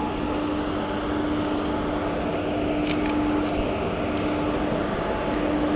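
Railway locomotive running, a steady rumbling noise with a constant hum and a few faint clicks.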